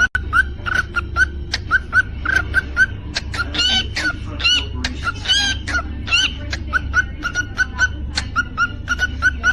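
Cockatiel chirping in a quick repeated pattern, about three or four short chirps a second, with a few longer warbling whistles around the middle. A steady low hum runs underneath.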